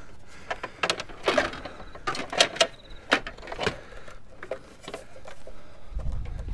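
Irregular clicks, taps and light knocks of things being picked up and moved while rummaging through a pile of discarded household items.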